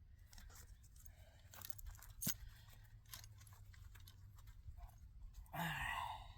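Digging tool scraping and crunching in hard clay soil while a dirt hole is dug: scattered scrapes and clicks, one sharper click about two seconds in. Near the end there is a brief, louder voice-like sound.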